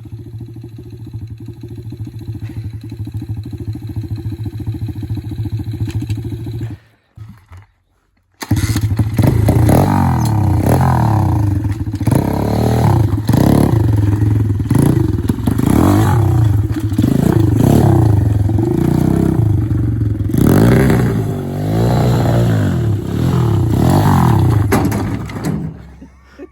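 Pit bike engine idling steadily, then cutting off about seven seconds in. After a second or so of silence it runs again and is revved up and down over and over, loud, with its pitch rising and falling with each blip.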